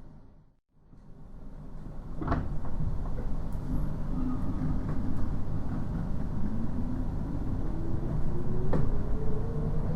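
Onboard running noise of a 719 series electric train, fading out and back in about a second in, then a low rumble as the train gets under way. From about six seconds a whine rises steadily in pitch as the train accelerates, with two sharp clicks along the way.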